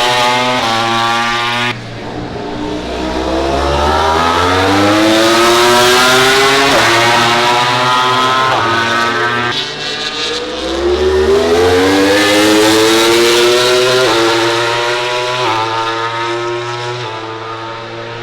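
MotoGP racing motorcycles at full throttle. The engine note climbs steeply and drops back at each upshift, in two long runs of rising revs with several gear changes.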